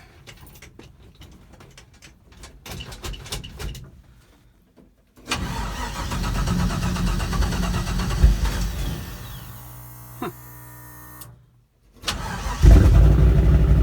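Turbocharged LS V8 cold-starting after months unused: scattered clicking at first, then it fires suddenly about five seconds in and runs, the level easing off as it settles. After a brief break it is running loud and steady again near the end.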